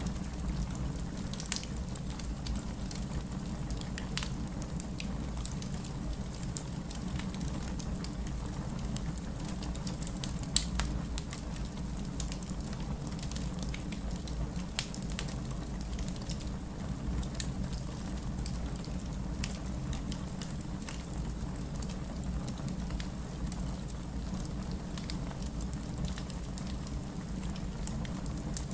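Wood fire burning in a fireplace: a steady low rumble of flames with frequent irregular crackles and pops of the burning wood, one sharper pop about ten seconds in.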